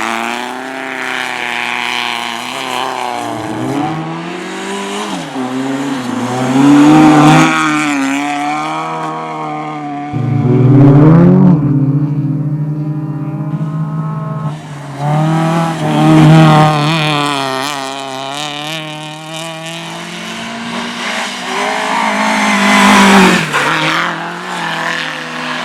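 Race car engines revving hard as they pass, their pitch climbing and dropping again and again through the gear changes. The cars are loudest about 7, 11, 16 and 23 seconds in.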